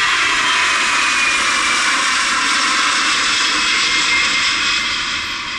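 USAF KC-135 jet tanker's four engines in flight: a loud, steady jet noise with a high whine sliding slowly down in pitch, easing off a little near the end.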